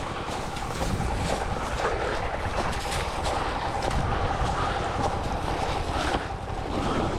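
Wind rumbling on the microphone, with scattered light rustles and ticks throughout.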